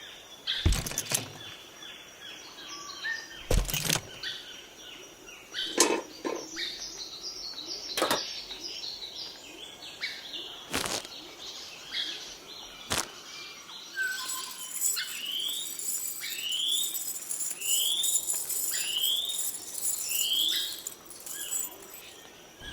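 Birds chirping, with a series of short rising whistled notes about once a second near the end. There are several sharp isolated knocks or taps spaced a couple of seconds apart.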